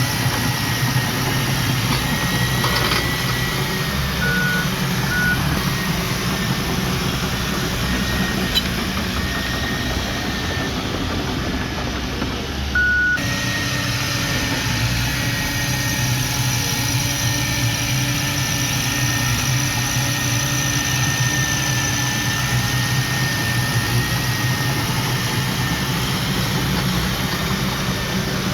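Diesel engine of earthmoving machinery running steadily, with a thin wavering high whine over it and a few short beeps, the first two about four and five seconds in and the third at a cut about halfway through.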